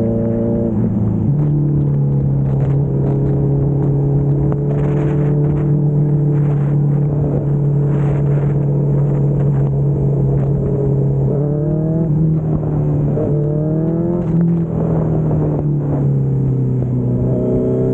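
Kawasaki Z900 inline-four engine running at a steady cruise, with a drop in revs about a second in and a few brief rises and falls in revs around the middle and near the end, under road and wind noise.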